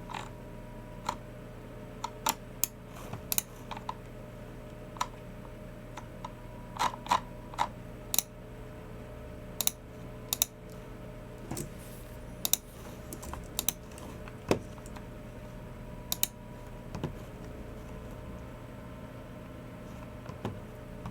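Unhurried, irregular keystrokes on a Logicool MX Keys Mini low-profile keyboard: single taps and short runs of a few keys with gaps of a second or more between them.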